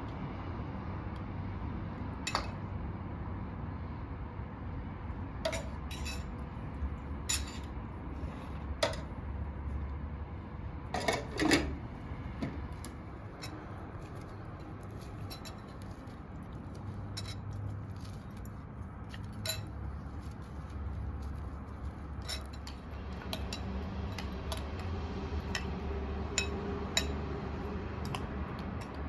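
Cutlery and dishes clinking and knocking now and then, with a short burst of louder clatter about eleven seconds in, over a steady low rumble.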